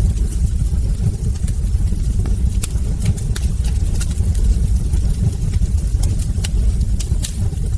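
Wood fire burning in a hearth: a steady low rumble with scattered sharp crackles and pops from the burning logs, coming irregularly and sometimes in quick clusters.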